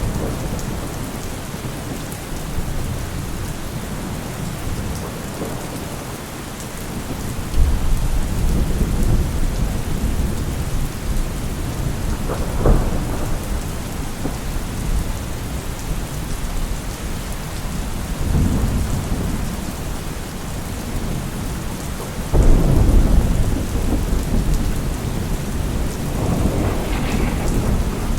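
Steady rain falling with rolling thunder. Low rumbles swell up several times, loudest about a quarter of the way in and again about three quarters through, with a sharper crack near the middle.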